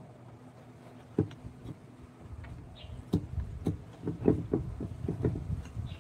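A single sharp knock, then a low rumble with a run of irregular taps and knocks that gets busier from about halfway.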